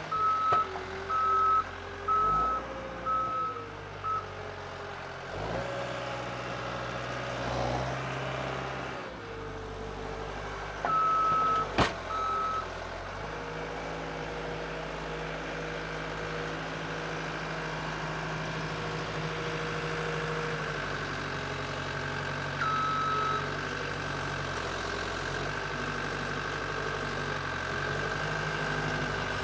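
Skid steer engine running and revving up and down as it works snow, then holding steady, with its backup alarm beeping in three runs as it reverses. One sharp knock about midway.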